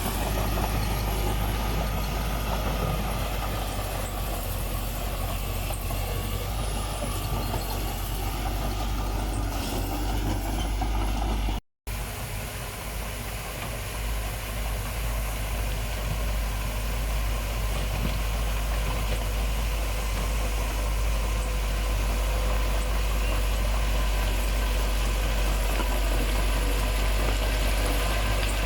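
Diesel engine of heavy earthmoving machinery running steadily at a low, even speed. The sound cuts out completely for an instant about twelve seconds in.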